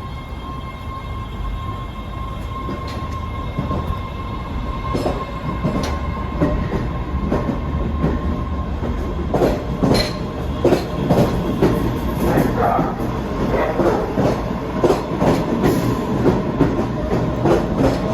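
Train running through a station, growing louder, its wheels clicking over rail joints, with the clicks starting about five seconds in and coming faster and louder toward the end.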